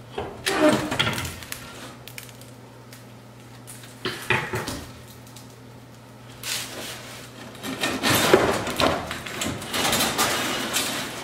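Metal parts of an old wood-burning fireplace clanking and scraping as they are pulled off. The clatter comes in three bouts: about a second in, around four seconds, and a longer stretch from about six and a half seconds on, over a steady low hum.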